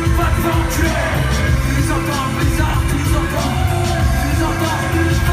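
Live rock band playing at concert volume: drums with regular cymbal strokes and steady bass notes under a voice.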